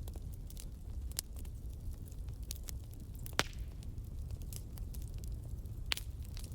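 Wood fire crackling: a steady low rumble of flames with frequent small snaps and two louder pops, one about halfway through and one near the end.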